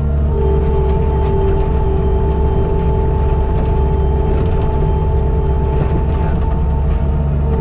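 Skid steer engine running steadily with a deep hum as the machine works with its grader attachment. A steady high whine joins just after the start and stops near the end.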